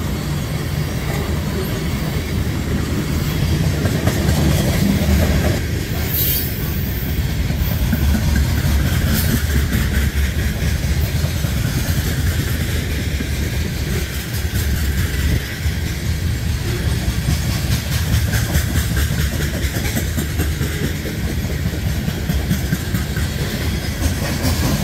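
Freight train's covered hopper cars rolling past: a steady rumble with the wheels clacking over rail joints.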